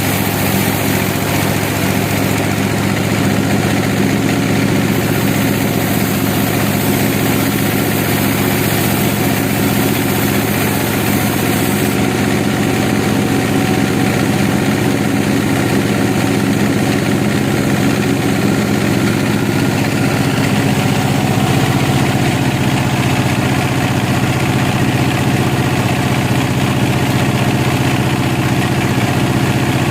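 An engine running steadily at an even speed, with a slight change in its pitch about twenty seconds in.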